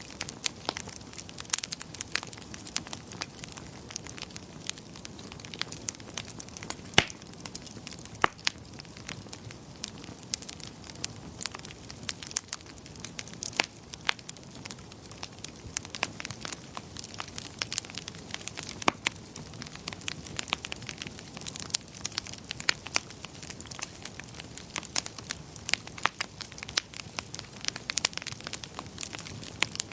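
Wood fire in a fireplace crackling, with many irregular sharp pops and snaps over a low steady rumble of flame.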